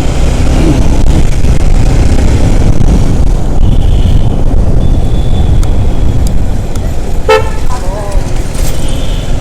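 Traffic heard from a moving motorcycle: a steady, loud low rumble of wind and engine, with vehicle horns honking several times, a longer spell of honking about four to six seconds in and another short honk near the end.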